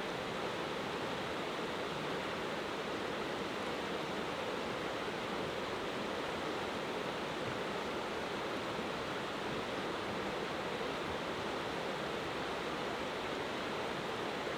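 Mountain river flowing, a steady even rush of water with no change through the whole stretch.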